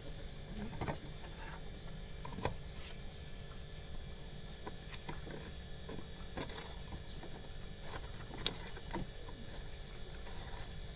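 Scattered plastic clicks and light scraping as a front-load washing machine's drain pump filter is fitted back into its housing, with one sharper click late on.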